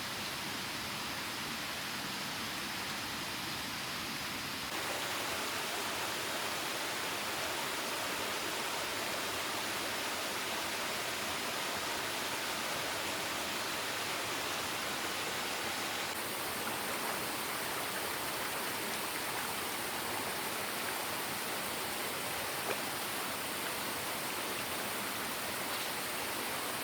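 Steady rush of falling water from a waterfall. Its tone shifts abruptly twice, once a few seconds in and again past the middle.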